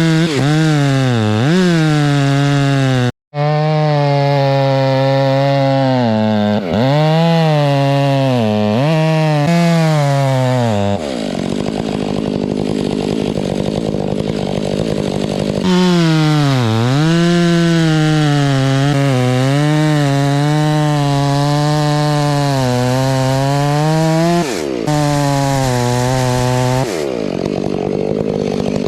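Large two-stroke chainsaw cutting into the trunk of a tall fir: the engine runs at high revs with its pitch dipping again and again under load and recovering. Twice, in the middle and near the end, it drops to a lower, rougher note for a few seconds before revving up again.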